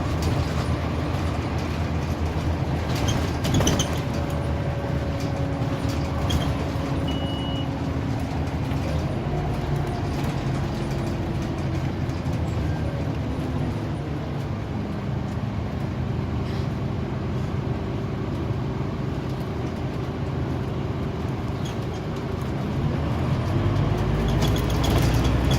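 Scania OmniCity single-deck bus heard from inside while moving: the diesel engine and drivetrain hum steadily, their pitch shifting up and down several times as the bus changes speed. A few brief knocks and rattles come about three and a half seconds in.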